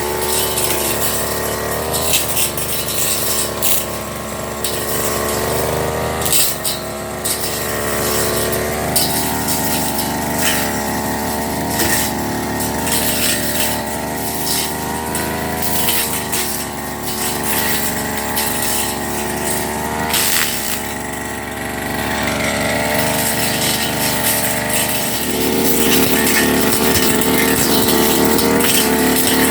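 Firman FGB389FI brush cutter engine running hard, its pitch stepping up and down every few seconds as the throttle changes, with frequent short ticks and crackles over the engine sound.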